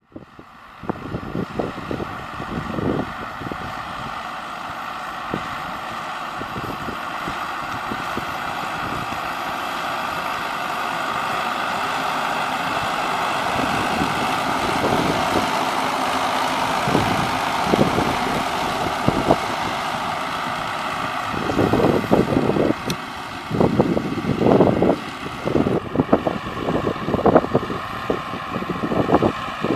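MTZ 952.4 tractor's diesel engine running steadily while spraying with a Kertitox sprayer, a broad steady hiss over the engine note. From about two-thirds of the way through, irregular low thumps and gusts break in.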